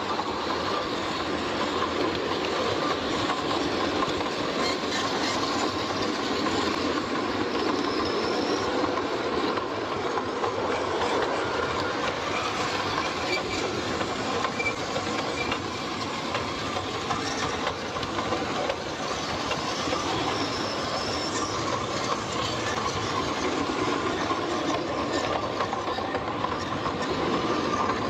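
A train running steadily along its rails: a continuous rolling noise with light clicking from the wheels.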